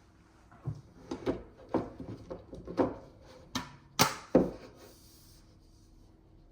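Knocks, rubs and clicks of a HEPA filter being fitted back into a Dyson HP09 air purifier. About a dozen start about a second in, with the sharpest clicks near four seconds in.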